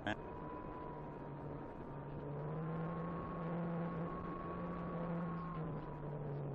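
Electric motor and propeller of an Apprentice 15e RC airplane in flight: a steady whine over a noisy rush. The pitch rises slightly about two and a half seconds in and settles back near the end.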